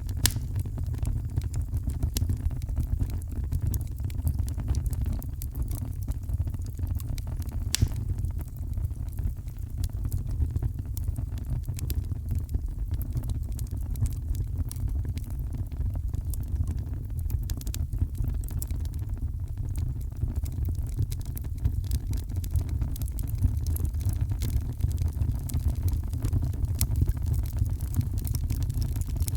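Heavy rain as a steady, low rumbling wash, with the occasional sharp crackle and pop of a wood fire.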